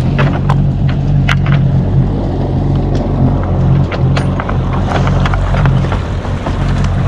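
A boat engine running steadily at low speed, with many short sharp crackles and clicks scattered over it.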